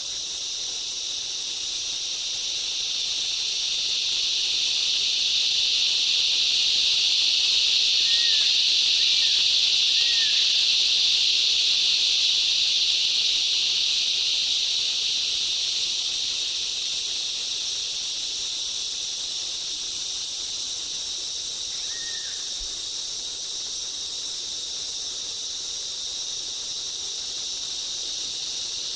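Rainforest insect chorus: a steady, high, shrill drone that swells louder for several seconds and then eases back. A few short chirps sound over it, three close together and one more later.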